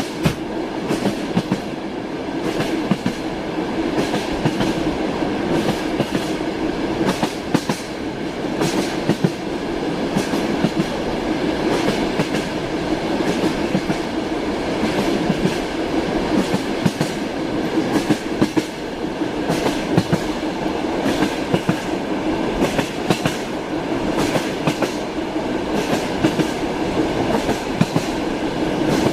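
Train running steadily along the rails, a continuous rumble with the wheels clacking on the track in frequent short knocks.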